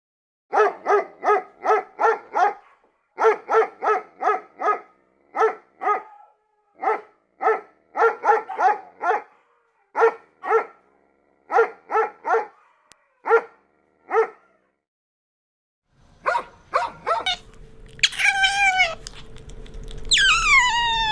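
A dog barking in quick runs of three to five barks, about three barks a second, with short pauses between runs. Near the end the barking stops and a different sound takes over: high, falling cries over a steady hum.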